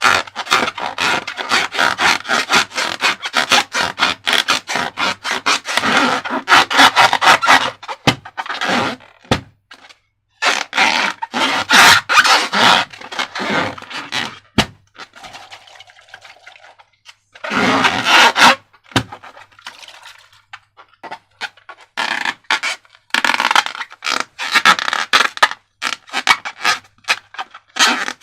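Slime being squished and worked by hand, a fast run of sticky, wet clicks and crackles with a few short pauses.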